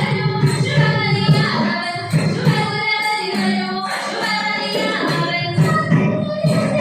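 Ottan Thullal music: verses sung by a woman over a steady rhythm of drum and small hand cymbals, with a jingling of bells.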